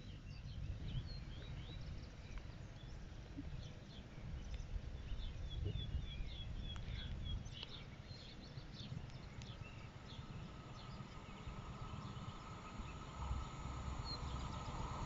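Small birds chirping and singing over a steady low rumble of wind on the microphone. In the last few seconds the noise of an approaching train grows.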